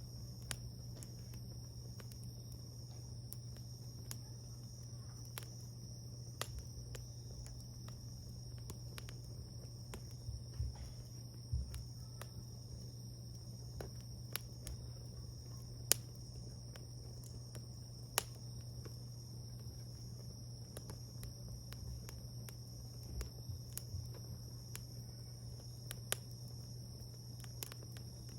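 Wood bonfire burning, crackling with irregular sharp pops, over a steady high-pitched whine and a low hum.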